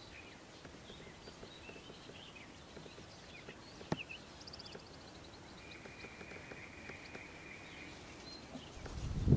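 Faint outdoor ambience with small birds calling: scattered high chirps, a short run of quick notes, then a steady trill lasting a couple of seconds a little past the middle. A sharp click just before halfway, and a low rumbling thump near the end, the loudest sound.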